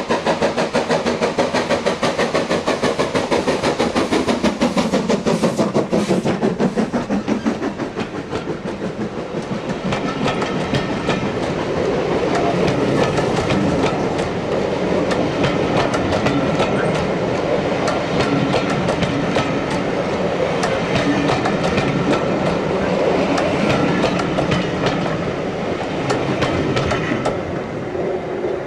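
A train double-headed by two steam locomotives climbing a steep 1 in 49 gradient passes close by with rapid, pulsing exhaust beats that drop in pitch as it goes past. From about eight seconds in, the coaches roll by, their wheels clicking over the rail joints.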